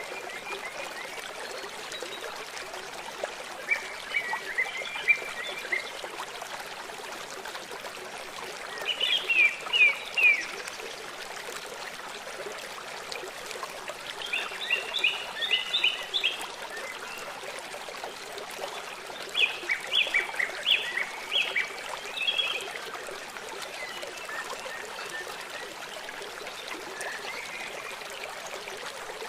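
Songbirds singing short bursts of rapid chirping notes every few seconds over the steady sound of running water from a stream.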